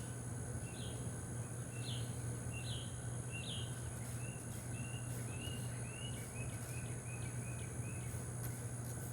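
Outdoor ambience: a bird calls five short chirps about three-quarters of a second apart, then a faster run of lower notes. Under it are a steady high-pitched insect drone and a low steady hum.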